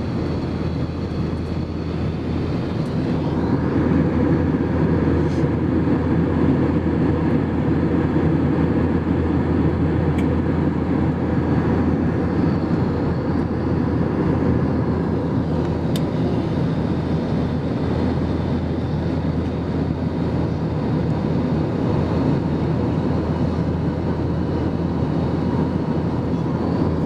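Steady cabin noise of a jet airliner in flight: a low engine drone and rushing air, with a faint steady whine above it.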